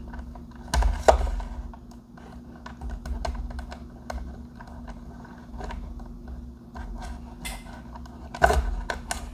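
Irregular small plastic clicks and taps from hands fiddling with a battery connector in a toy excavator's battery compartment, with louder knocks about a second in and near the end.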